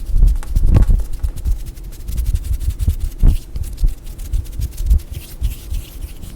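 Fingers tapping and scratching on objects, a fast irregular run of dull knocks and light clicks with some rubbing.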